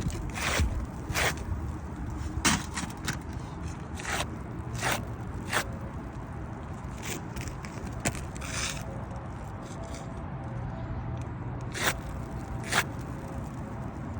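Irregular short scraping strokes, about a dozen of them with a few sharp clicks among them, over a low steady hum.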